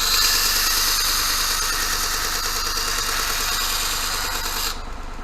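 Steel knife blade being ground for its profile against the running abrasive belt of a Vormac Compact belt grinder: a steady hissing grind over the hum of its 3/4 kilowatt motor. The grinding stops about four and a half seconds in, leaving the motor and belt running.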